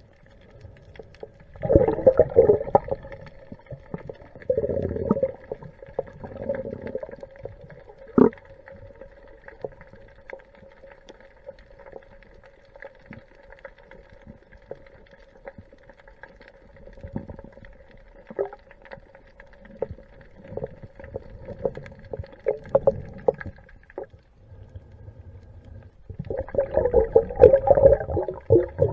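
Underwater sound as heard by a diver's camera in a swelling sea: loud bursts of bubbling, rushing water come every few seconds over a steady hum.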